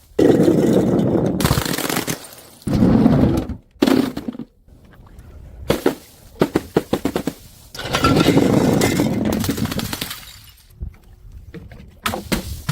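Glass bottles smashing on stairs: several loud crashes of shattering glass, each followed by a clatter of shards and small clinks.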